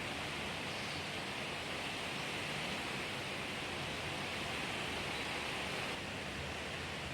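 A steady hiss of background noise with no distinct events in it.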